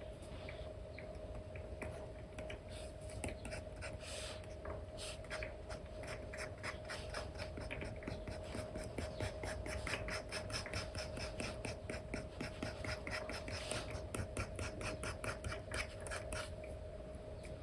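Stylus nib scratching across a paper-like matte screen protector on an iPad, in quick short hatching strokes several a second, with a faint steady hum underneath.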